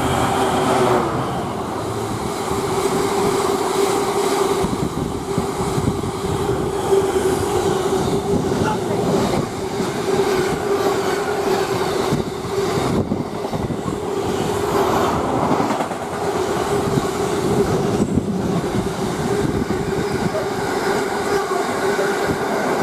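Freightliner freight train's wagons rolling past at speed: a continuous loud rumble and rail clatter with a steady ringing tone from the wheels.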